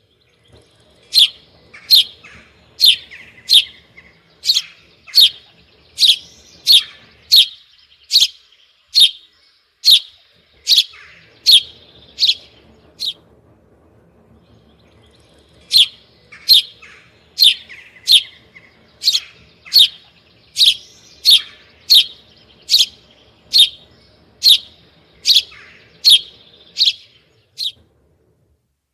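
A bird calling: a run of loud, sharp, high notes, about three every two seconds, a brief pause, then a second run, over softer chirping.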